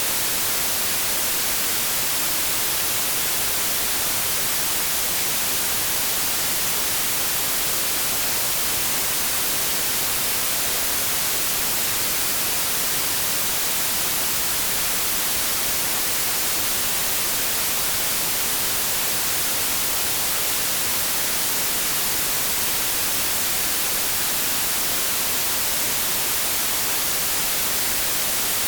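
Synthetic white noise: a steady, even hiss, strongest in the treble, with no change in level.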